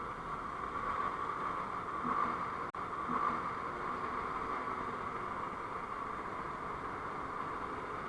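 Steady road and wind noise of a moving vehicle as picked up by a dashcam microphone, with a split-second cut-out a little under three seconds in.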